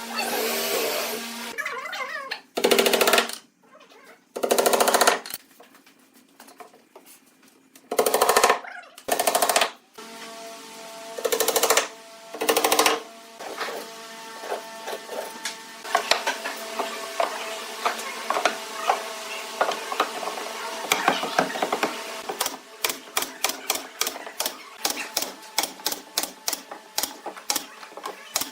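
Workshop tool noise: several short, loud bursts of about half a second each, then a run of sharp clicks, two or three a second, near the end.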